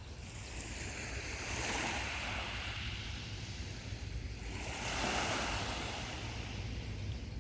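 Sea waves breaking on a sandy beach, surging in twice, the second louder. A steady low rumble of wind on the microphone runs underneath.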